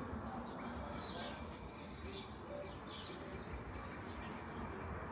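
A small bird chirping a few short, high-pitched calls over steady background noise.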